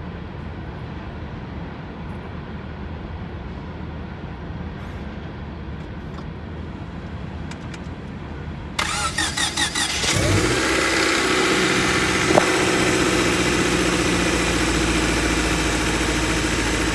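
1997 Honda Civic's four-cylinder engine cranked by the starter for about a second and a half, then catching and settling into a steady, loud idle.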